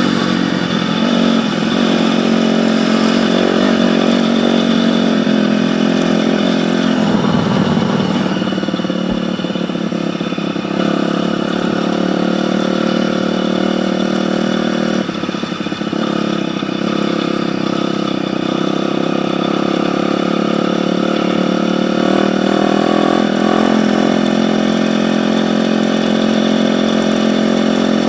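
Dirt bike engine running at a fairly steady speed, with a brief dip about halfway through and a slight rise in pitch later on.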